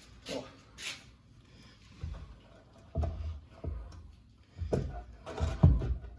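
A series of irregular dull thumps and knocks, the loudest near the end.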